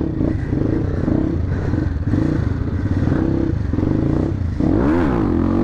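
Motorcycle engine running while riding, steady and pulsing, with a brief rise and fall in pitch about five seconds in.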